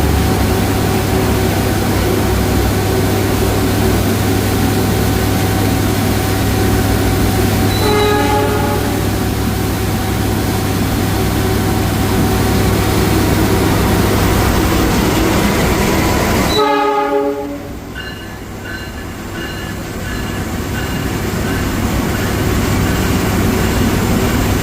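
A freight train running through at speed without stopping, a steady loud rumble of locomotive and wagons. The horn sounds in short blasts about eight seconds in and again about two-thirds of the way through. Just after the second blast the rumble drops off sharply.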